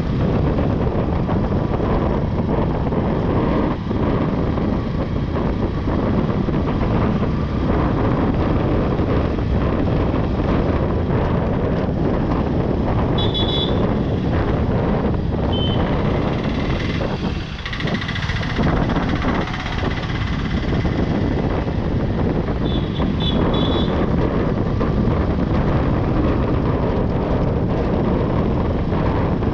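Street traffic heard from a moving motorbike: a steady rush of wind and road noise, with short high beeps twice, just before the middle and about three quarters in.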